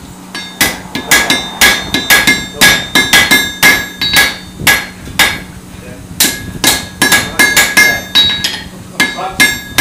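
Blacksmith's hand hammer striking metal on an anvil in quick ringing blows, about three a second. The hammering pauses briefly just past the middle, then resumes and thins out towards the end.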